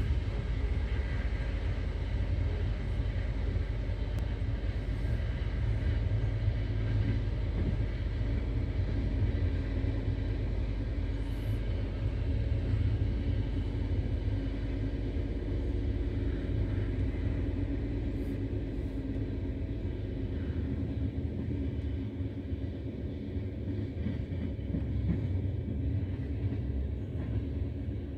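Steady low rumble of an Intercity Notte passenger coach running at about 120 km/h, heard from inside the coach: wheels on the rails and the coach body. The deepest part of the rumble eases a little about two-thirds of the way through.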